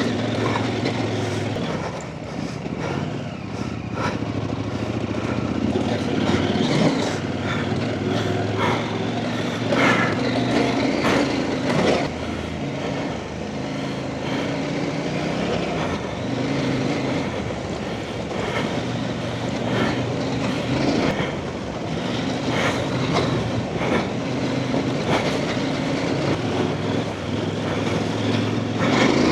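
Trail motorcycle engine running as the bike is ridden along a rough lane, its note rising and falling with the throttle. Frequent sharp knocks and clatters run through it.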